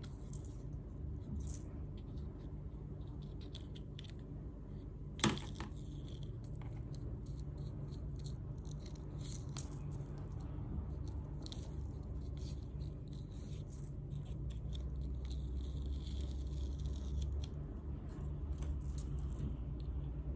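Faint handling sounds of sand art work, with light scrapes, rustles and small clicks over a steady low hum, and one sharp click about five seconds in.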